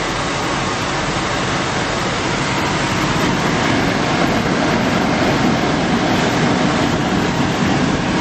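Automatic car wash working over the car, heard from inside the cabin: a steady, loud noise of water spray and washing machinery with a low rumble underneath.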